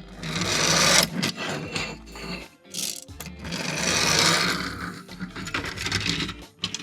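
Bursts of rasping, rustling handling noise, the longest about a second in and from about three and a half to five seconds, over background music with a steady low bass.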